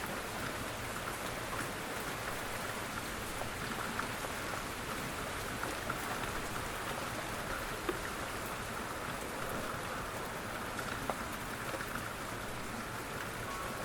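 Steady rain, with scattered louder drops ticking on a surface.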